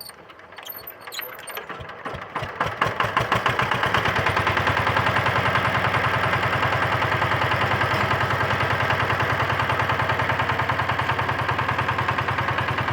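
VST Shakti 130 DI power tiller's single-cylinder diesel engine being hand-cranked and catching: quickening beats grow louder over the first few seconds. It then runs at a steady, even beat.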